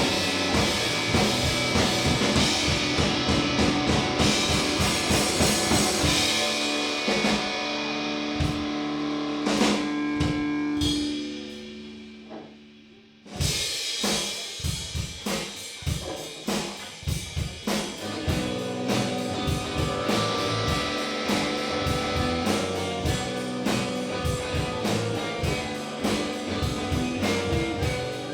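Indie rock band playing live with drum kit and guitar. About halfway through the band drops to a sustained held note that fades almost to nothing, then comes crashing back in with drums and guitar.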